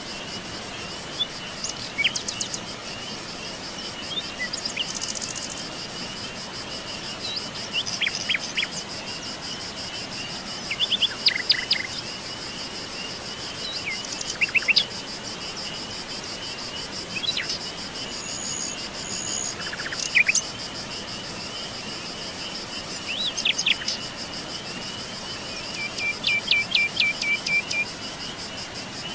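Forest birds calling in short bursts of chirps and quick note series, with a rapid trill near the end, over a steady high-pitched chorus of crickets.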